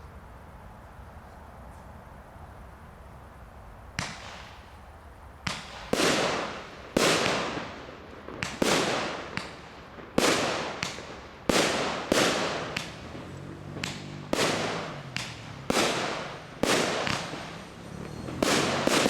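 Royal Fireworks RFC 1414 'Pear of Thunder' firework going off in a string of about fifteen loud bangs, roughly one a second, each with a short echoing tail. The first bang comes about four seconds in.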